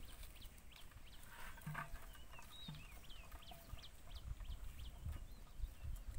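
Many short, high bird chirps, several a second, over a faint low rumble.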